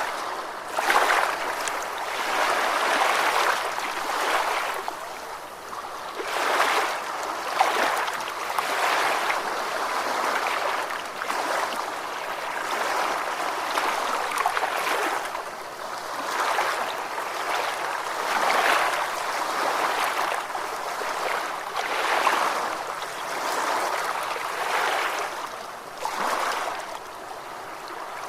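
Ocean waves washing and breaking on a shore, swelling and easing every few seconds.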